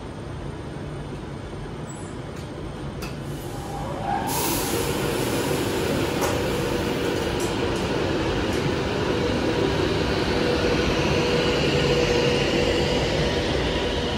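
A train moving through the station: a steady rumble of wheels on track that grows suddenly louder about four seconds in, with a steady whine over it and a few sharp clicks.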